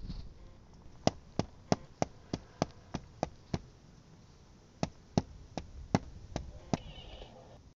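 Footstep sound effects for a walking Lego minifigure: sharp, evenly spaced taps, about three a second, in two runs with a short pause between them.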